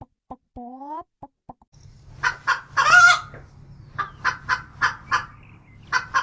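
Chicken clucking in a series of short calls, with one longer call about three seconds in. A steady low hum runs underneath from about two seconds in, after a few clicks and a short rising tone near the start.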